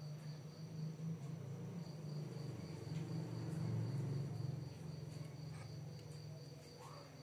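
Insects trilling steadily at a high pitch over a louder low hum, with a few faint clicks.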